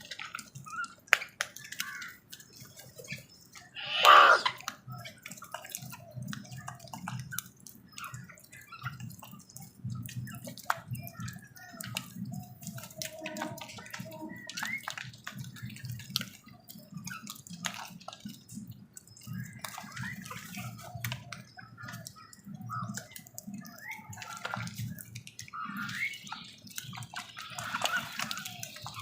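A crow gives one loud harsh caw about four seconds in, among scattered short bird calls and many small clicks and taps.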